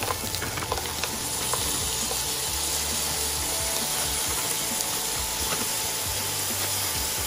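Raw scallops and sliced portobello mushrooms sizzling in hot oil in a pan, a steady frying hiss.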